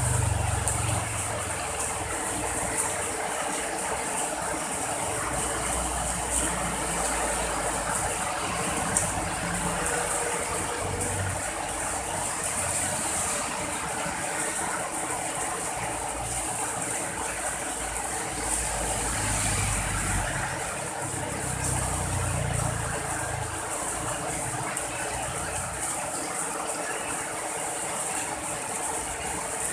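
Steady rain hiss. A low rumble comes and goes under it, strongest about two-thirds of the way through.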